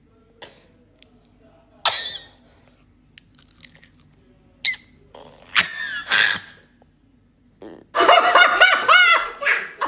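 People laughing: a few short bursts of laughter with quiet gaps between them, then several voices breaking into laughter together about eight seconds in.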